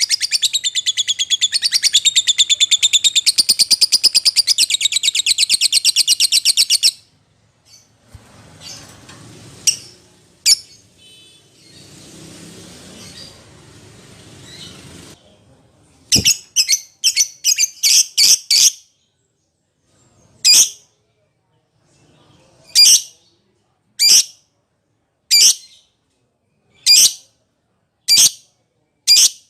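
Lovebird calling: a long, fast, high chattering trill for about seven seconds, then after a lull a quick run of sharp, high chirps, followed by single calls repeated roughly every second and a half.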